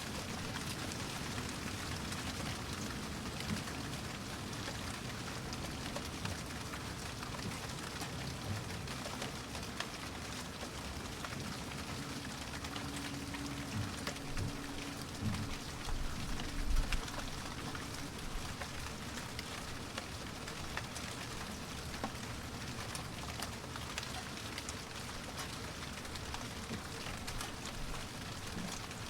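Steady rainfall, with many small drops clicking against a surface. A brief low rumble comes about halfway through.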